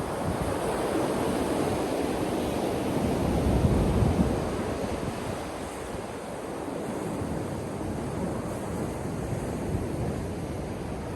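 Ocean waves breaking on a beach: a steady rushing surf that swells to a peak about four seconds in, then eases back into a lower, even wash.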